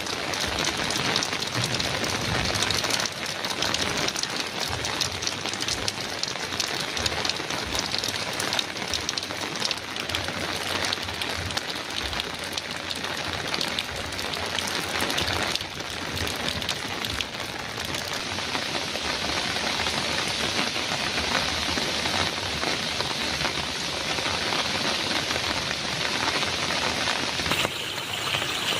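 Heavy rain on a metal roof: a steady, dense patter of drops, its texture shifting slightly near the end.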